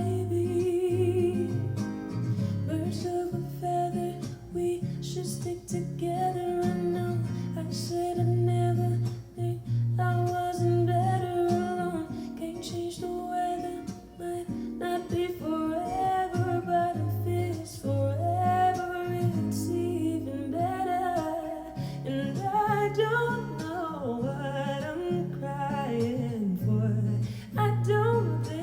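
Acoustic guitar playing with a woman singing over it, in an acoustic pop-song cover.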